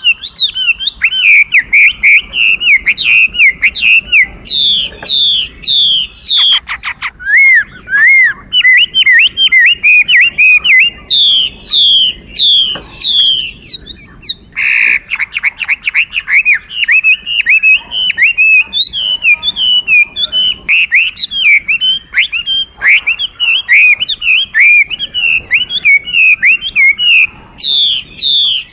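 Chinese hwamei (Garrulax canorus) singing a loud, continuous song of fast, varied whistled phrases. Quick sliding notes are repeated in runs, with a short harsh rasping note about halfway through.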